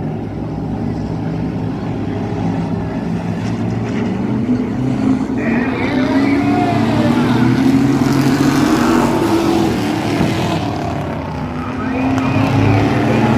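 Thunder Truck race engine running hard, its pitch climbing over several seconds, dropping about ten seconds in as the throttle lifts, then climbing again.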